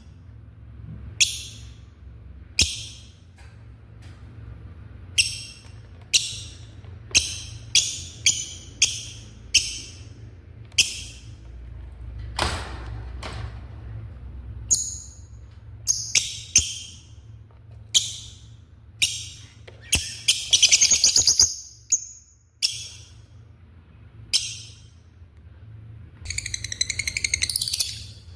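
Lovebirds calling in short, shrill, high chirps, one every second or so, breaking into bursts of rapid chattering about two-thirds of the way in and again near the end; the owner takes the calling for anger.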